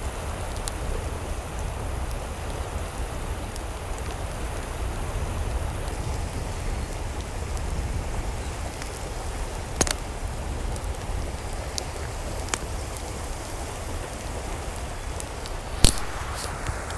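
Steady rain, with scattered small clicks and two sharper knocks, the loudest near the end.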